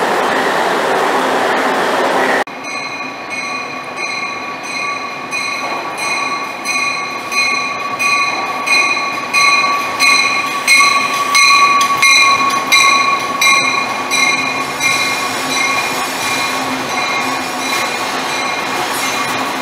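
A CTA rapid-transit train running through an underground station, then, after a cut about two seconds in, a Metra bilevel commuter train moving along a station platform with its bell ringing steadily, about a stroke and a half a second.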